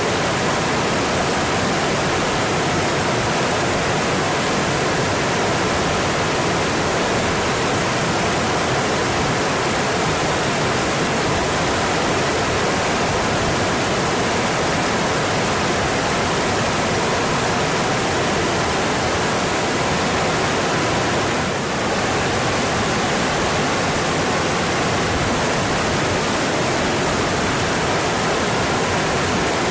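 Mountain stream rushing steadily over rocks, with a brief dip in level about two-thirds of the way through.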